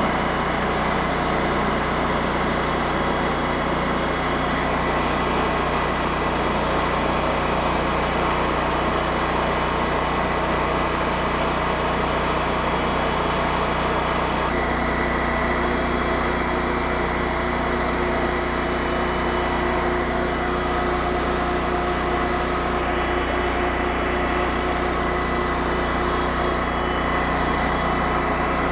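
TimberKing 2000 bandsaw mill's engine running steadily while its band blade slabs a white willow log, with a slight change in tone about halfway through.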